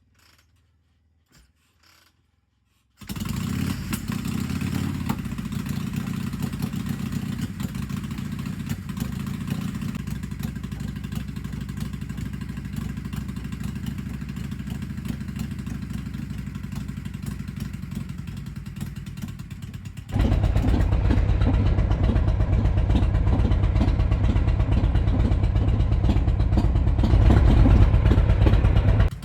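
Harley-Davidson Shovelhead V-twin motorcycle engine running, coming in suddenly about three seconds in. About twenty seconds in it becomes louder.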